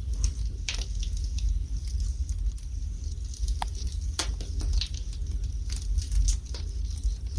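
Wood fire burning in a fireplace: irregular crackles and sharp pops from the burning logs over a steady low rumble.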